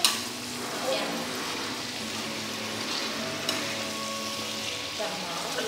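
Onions and peppers sizzling steadily in a hot pan on the floor among the dishes, with a sharp click at the start and another about three and a half seconds in.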